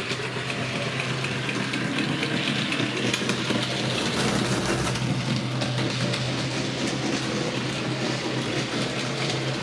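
Bachmann model railway locomotive running on track, its electric motor and gears giving a steady, noisy whirr with a constant low hum and light clicking from the wheels.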